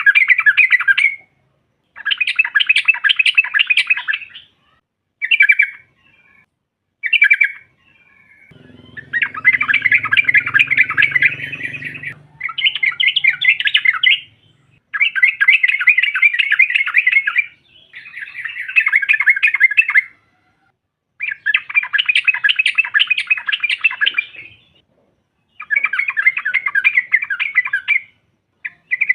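Yellow-vented bulbul (trucuk) chattering calls in repeated bursts of a second or two each, with short gaps between them. This is the female's call to the male, used to draw other bulbuls in.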